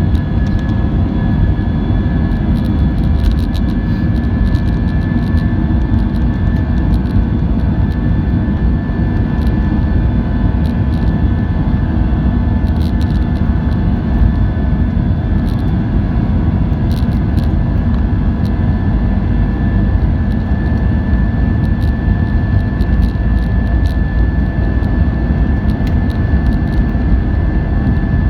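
Airbus A320-232's IAE V2500 jet engines running steadily, with a deep rumble and a steady high whine over it.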